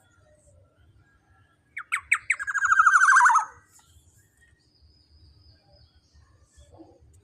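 Black-naped oriole (kepodang emas) giving a harsh call about two seconds in: a few sharp separate notes that run straight into a fast rattling chatter lasting about a second and a half.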